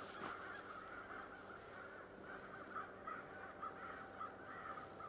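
A flock of crows cawing faintly, a rapid run of harsh overlapping calls that sounds like crows squabbling with each other.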